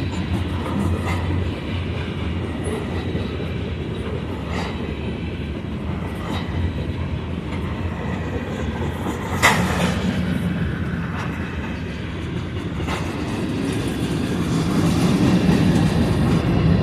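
Mixed manifest freight train passing a level crossing at speed: steady rumble and clatter of railcar wheels on the rail joints, with irregular clanks and one loud sharp bang about nine and a half seconds in.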